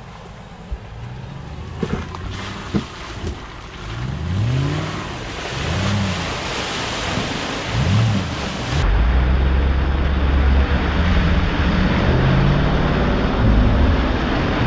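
UAZ off-road vehicle's engine revving up and down under load while driving through deep water, over a steady rush of splashing water. From about nine seconds in, a heavier, deeper engine rumble takes over.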